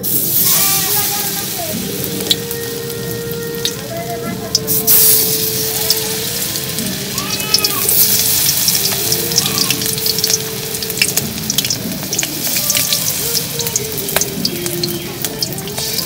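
Spice-coated vegetable pieces frying in hot oil in a karahi, a steady sizzle with many small crackles. It gets louder about five seconds in as more pieces go into the oil.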